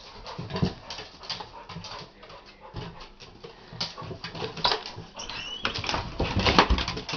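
Dogs at play: a run of scuffling, pattering and clicking sounds, with a brief high whine a little past five seconds in.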